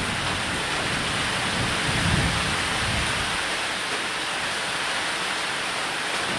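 Steady rain falling on a roof, with a low roll of thunder swelling about two seconds in and fading away.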